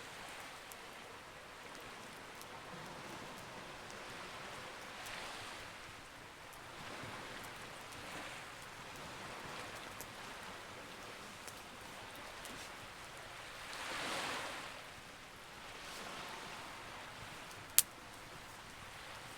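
Campfire burning with scattered faint crackles and one sharp, loud pop near the end, over a hiss that swells and fades like sea waves washing in.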